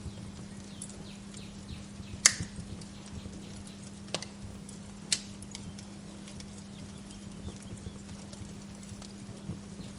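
Wood fire in a fireplace crackling with small irregular ticks and three sharp pops, the loudest about two seconds in and two more around four and five seconds. A steady low hum runs underneath.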